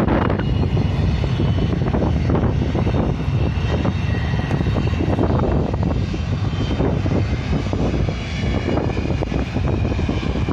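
Airliner engines running loud and steady, with a faint high whine above a deep rumble.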